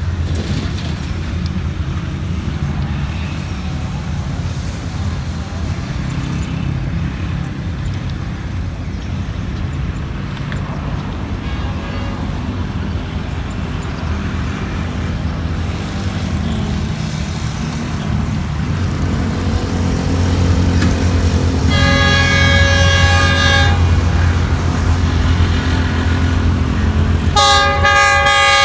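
Horn of an approaching Pakistan Railways diesel locomotive, sounding a blast of about two seconds roughly three-quarters of the way through, then a second blast starting near the end, over a steady low rumble.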